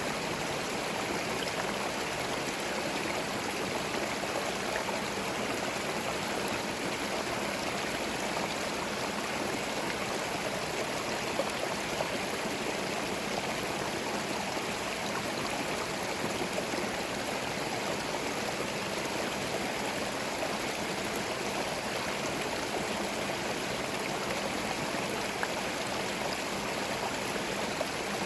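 Forest stream flowing over stones, a steady rush of water with a light babbling trickle.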